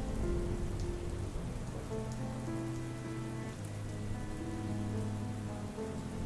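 Soft steady rain under a slow ambient music score of held low notes that shift every second or two, with a few faint drop ticks.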